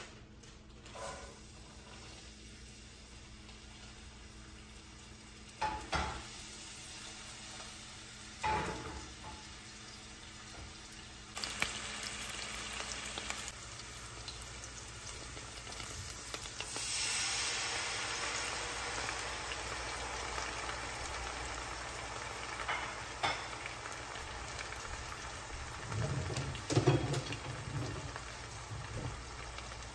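Diced red onion frying in oil in a pan: a steady sizzle that comes up suddenly about a third of the way in, after a couple of sharp knocks. A few more knocks near the end.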